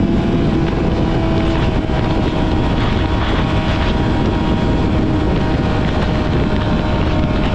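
Yamaha YZF-R6 inline-four sport bike with a full-system aftermarket exhaust, running at steady high revs while riding, with a constant engine note under wind rush on the microphone.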